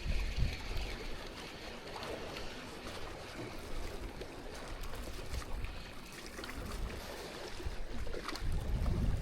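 Seashore ambience: water washing steadily, with gusts of wind rumbling on the microphone at the start and again near the end.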